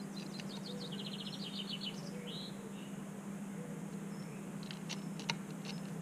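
A small songbird's rapid trill of high chirps followed by a short call, over a steady low hum. Near the end come several sharp taps as the carrion crow pecks at bread on the wooden feeding board.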